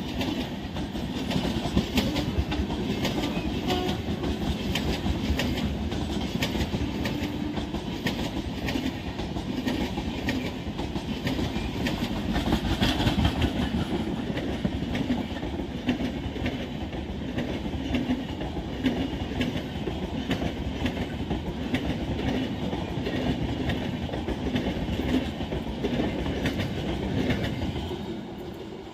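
Passenger coaches of an express train rolling past, their wheels clicking in a steady clatter over the rail joints and points. The sound drops a little near the end as the tail of the train goes by.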